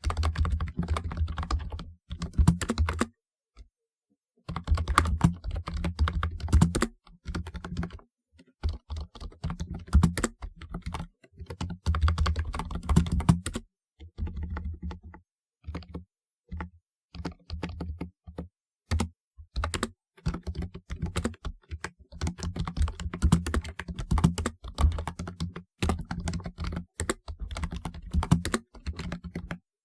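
Typing on a typewriter-style keyboard: quick runs of key clicks, each stroke with a low knock under it, broken every few seconds by short pauses.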